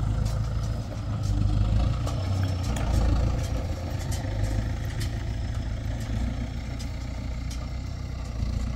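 An engine running steadily at a low pitch, with scattered light clicks over it.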